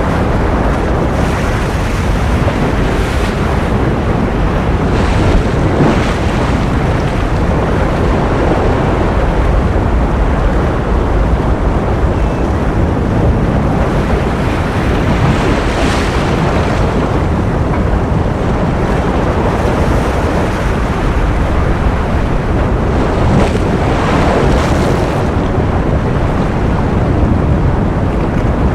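Ocean surf: a continuous wash of waves, swelling a little louder every several seconds as bigger waves break.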